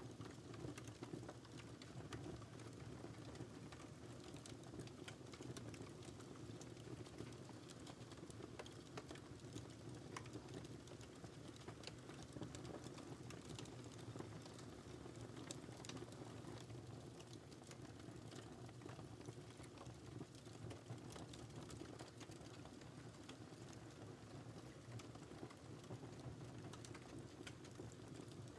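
Wood fire crackling steadily and faintly, with frequent small irregular pops and snaps over a low, even hiss of burning.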